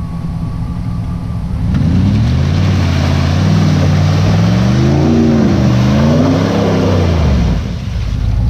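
Jeep Grand Cherokee ZJ with a welded rear axle, its engine revving hard in deep mud ruts. The engine note climbs about two seconds in, rises and falls a few times under a rushing noise, then drops back near the end.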